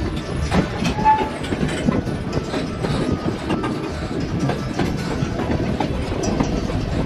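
White Pass & Yukon Route narrow-gauge passenger train rolling along the track, heard from aboard: a steady rumble with irregular clacks and knocks from the wheels on the rails. A brief high squeak comes about a second in.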